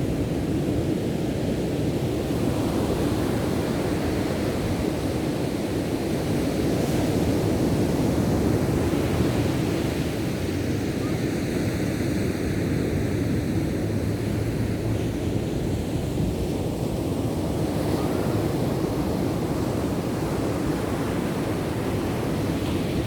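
Ocean surf: waves breaking and washing in a steady rush with slow swells in loudness, with some wind on the microphone.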